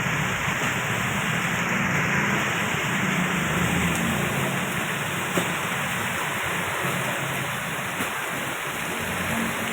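Heavy rain falling steadily, with the low rumble of passing road traffic underneath that swells and fades.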